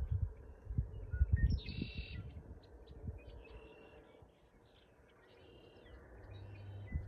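Red-winged blackbirds singing, several separate song phrases one after another. Low thumps in the first two seconds, and a faint low hum starts near the end.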